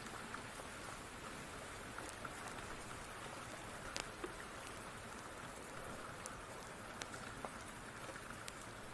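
Steady rain falling, an even hiss, with scattered sharp ticks every second or so.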